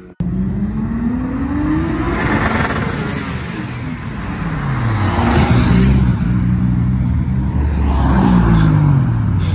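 Car engine revving hard under acceleration. Its pitch climbs over the first couple of seconds, falls away in the middle, then rises and drops again near the end.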